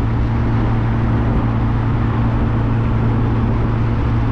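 Classic car cruising at steady speed: an even engine drone with road and wind noise, unchanging throughout.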